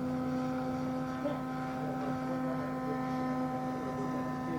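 Electric RC AT-6 Texan's big two-blade propeller and motor in flight, a steady buzzing drone held at one pitch.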